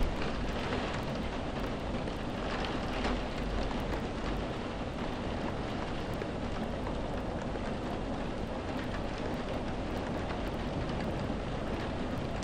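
Steady rain falling, an even hiss with a constant low rumble underneath, swelling a little about three seconds in.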